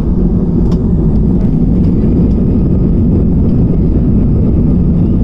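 Steady low rumble of an airliner's engines and rushing air, heard inside the passenger cabin in flight, with a few faint ticks in the first couple of seconds.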